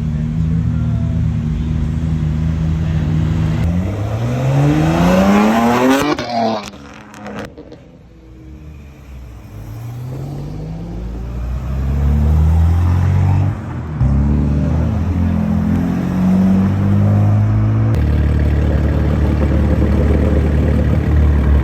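Several BMW M cars' engines and exhausts heard in turn as they pull away. The first runs steadily, then revs up with a sharply rising pitch about four to six seconds in and cuts off. After a quieter moment another accelerates with rising pitch, and later cars run with a loud, low engine note.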